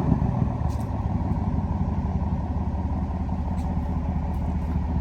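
Chevy Silverado Trail Boss pickup engine idling steadily, with its deep exhaust note coming through new quad exhaust tips. It settles into idle in the first second, just after a cold start.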